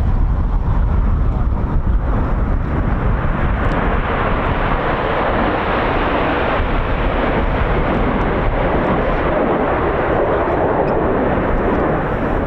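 BAE Hawk T1 jets of the Red Arrows flying past, the jet noise swelling from about two seconds in and staying strong, over a constant rumble of wind on the microphone.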